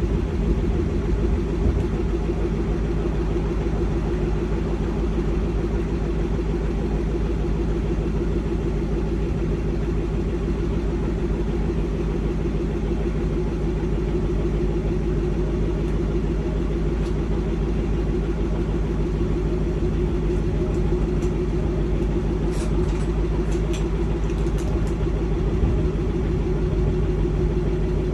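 Range Rover Sport Overfinch's supercharged 5-litre V8 idling steadily through its sport exhaust, with no revs. A few faint ticks come about three-quarters of the way through.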